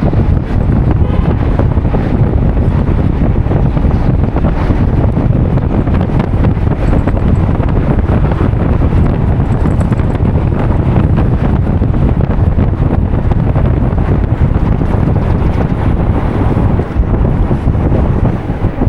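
Loud, steady wind buffeting the microphone, a dense low rumble without a break.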